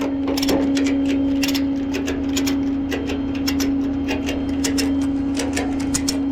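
A machine hums steadily at one pitch while sharp, irregular clicks and ticks come several times a second over it.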